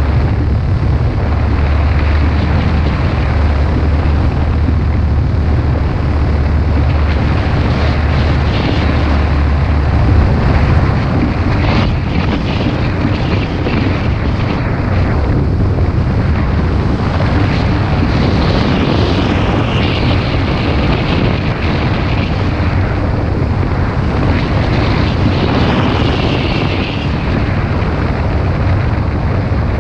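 Auxiliary motor of a Fillo powered hang glider running steadily in flight, its propeller drone mixed with heavy wind rushing over the microphone.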